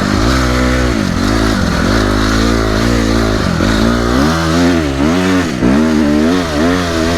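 Honda CRF250R's single-cylinder four-stroke engine revving up and down while being ridden through thick sand, its pitch rising and falling again and again with the throttle.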